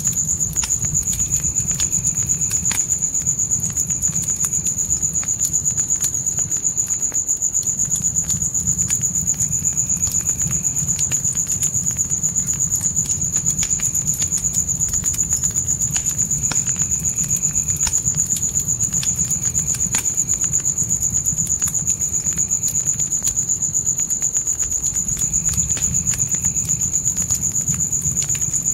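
A steady, high-pitched chorus of night crickets, unbroken and loudest, over a crackling fire with scattered sharp pops and a low steady rumble. A fainter, lower insect call comes and goes about every seven seconds.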